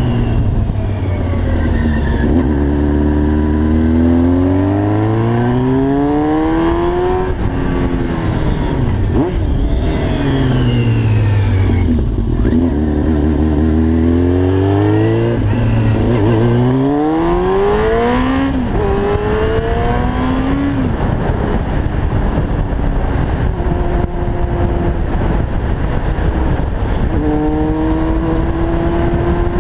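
The inline-four engine of a 1990 Yamaha FZR 600 with a Yoshimura exhaust revs hard through the gears, its pitch rising on each pull and dropping at each shift. Midway it falls away as the throttle eases off, then it pulls up again. Near the end it settles to a nearly steady note, over a rush of wind noise.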